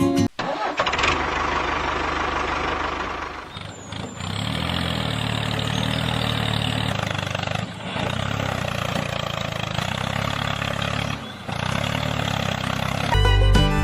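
An engine running steadily with a low, even drone, cutting out briefly three times.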